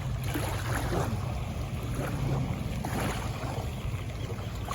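Wind gusting across the microphone, swelling and fading every second or so, over a low steady engine hum.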